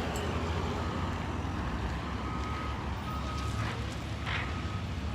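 Road traffic: a steady low rumble of vehicles with a few brief passing swishes, and a faint thin steady tone that comes and goes over the second half.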